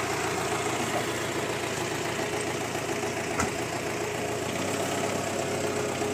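SUV engine idling steadily, with one short knock about three and a half seconds in.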